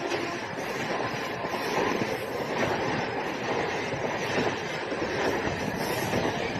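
A train running past on its rails: a steady, dense rolling noise of wheels and cars that keeps up without a break.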